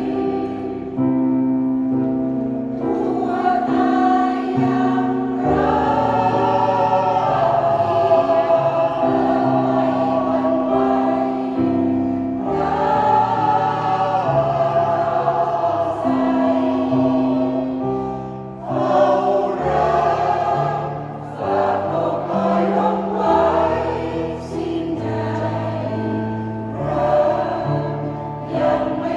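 A senior choir singing in harmony: sustained phrases in several voice parts, with a brief break between phrases every few seconds.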